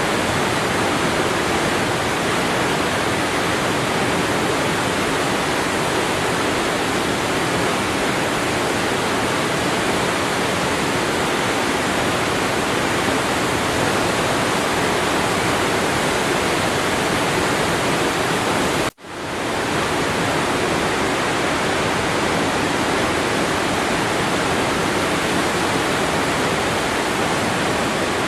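Waterfall falling water: a steady, full rushing hiss. About two-thirds of the way through it cuts out for an instant and swells back in.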